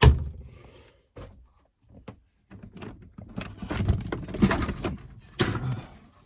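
A sharp latch-like click, then knocks and a few seconds of rattling and scraping as a camper door is unlatched and opened.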